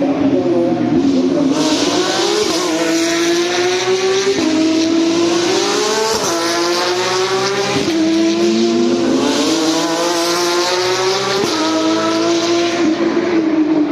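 Porsche 911 GT3 Cup race cars' flat-six engines at full throttle, accelerating hard through the gears. The engine note climbs steadily and drops sharply at each upshift, about four or five times.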